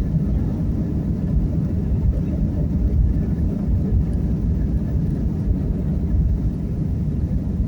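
Airplane taking off: a steady low rumble of jet engine and airflow noise.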